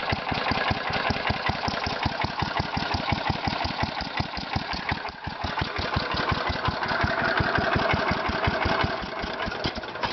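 Kohler Magnum 16 hp single-cylinder engine running steadily, with a rapid, even exhaust beat.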